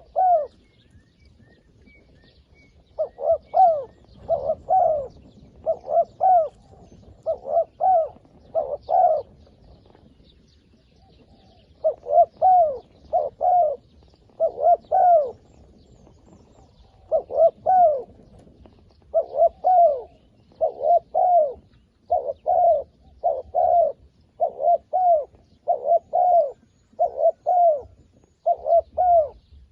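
Zebra dove cooing: runs of short, quick, arched notes repeated again and again, broken by brief pauses.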